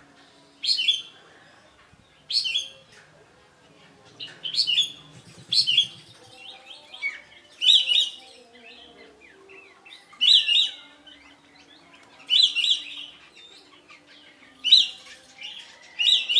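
Kapas tembak songbird singing short, loud chattering phrases, one about every two seconds.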